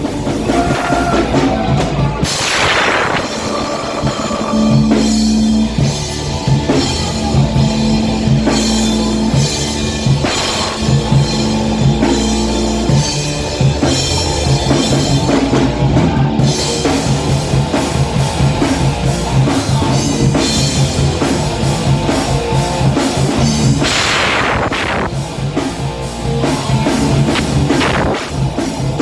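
Heavy metal band playing live: drum kit with fast, even bass-drum strokes under a distorted guitar and bass riff, with no singing. Cymbal crashes ring out about two seconds in and again near the end.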